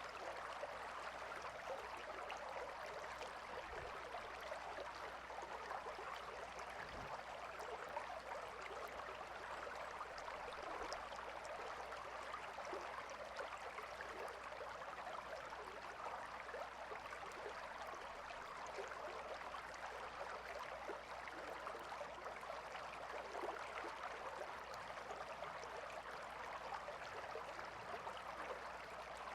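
Calm river flowing: a steady, even rush of water with a fine, flickering texture.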